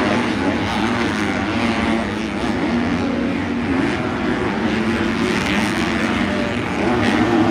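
Pack of 250cc four-stroke motocross bikes racing on the track, several engines revving and droning together with pitches rising and falling.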